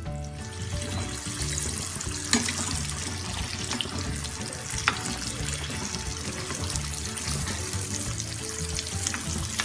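Batter-coated dumplings deep-frying in hot oil, a steady bubbling sizzle, with two sharp metal clinks from a slotted spoon against the pan about two and five seconds in.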